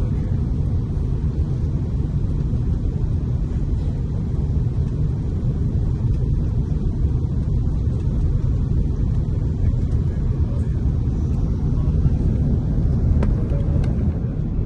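Airbus A330-300 cabin noise in flight: a steady low rumble of engine and airflow heard from inside the passenger cabin.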